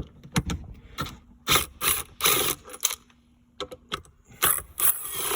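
Power gun with a 10 mm socket running in short bursts to back out two bolts, with small clicks of the socket and bolts in between. The bursts come about one and a half seconds in, around two seconds in, and again near the end.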